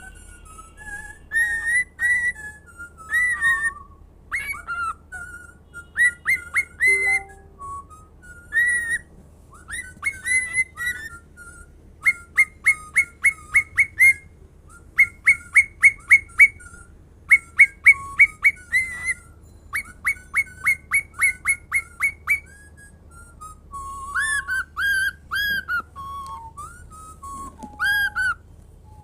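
Pet bird whistling and chirping: a string of clear whistled notes and glides, with runs of quick repeated notes, about five a second, through the middle.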